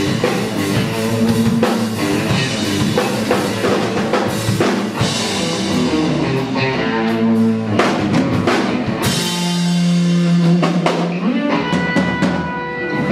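Live rock band playing a riff-rock tune: drum kit with kick drum and cymbals under electric guitar and bass, with a long low note held for a couple of seconds near the end.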